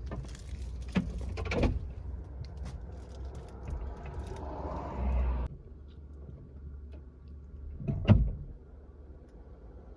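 Steady low rumble inside a moving Lada Priora, with a few knocks and thumps; the loudest comes about eight seconds in. A rushing noise swells and cuts off suddenly about five and a half seconds in.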